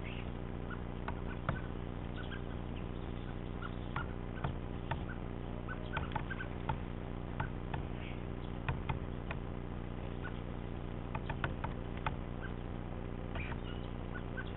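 Great spotted woodpecker pecking at a peanut-stuffed log feeder: irregular sharp taps, some in quick pairs, over a steady low hum.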